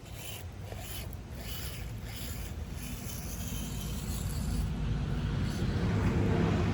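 Axial SCX24 micro RC crawler's brushed motor and gearbox running as it crawls over the track, with tyres rubbing and scraping, growing louder toward the end.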